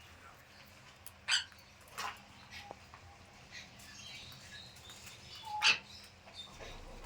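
Three short, sharp animal calls, the loudest one near the end.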